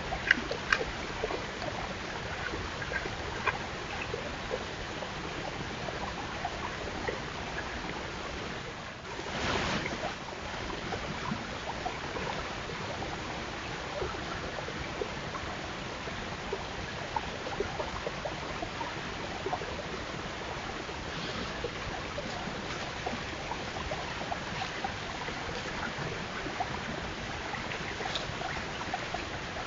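White-tailed deer chewing apples, heard as scattered small crunches and clicks over a steady hiss. A short drop-out about nine seconds in is followed by a brief louder rush of noise.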